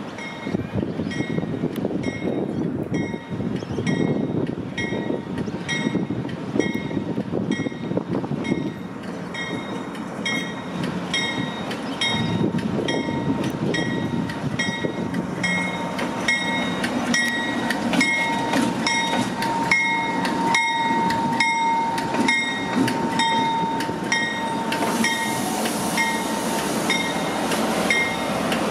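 Pacific National NR-class diesel-electric locomotive rumbling past at low speed at the head of a passenger train. Throughout there is a regular metallic ringing, about one and a half strikes a second. A thin wheel squeal swells in the second half, followed by a hiss near the end.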